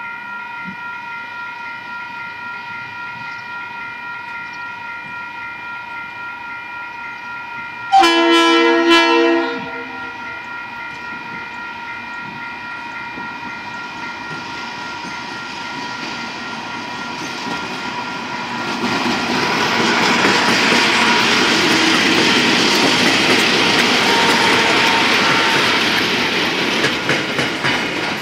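Coal train approaching and passing. The diesel locomotive's horn sounds about eight seconds in for roughly a second and a half. The locomotives then grow louder as they draw level, followed by the rumble and clickety-clack of coal hopper wagons rolling over the rails.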